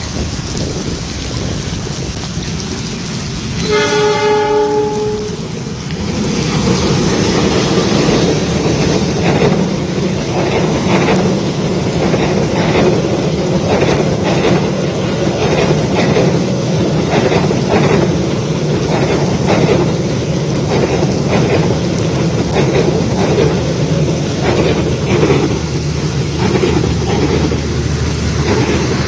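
Heavy rain falling, then a CC 206 diesel-electric locomotive sounds its horn once for about a second and a half. The locomotive and its passenger coaches then pass close by, the wheels clacking over the rail joints in a repeating rhythm over the noise of the rain.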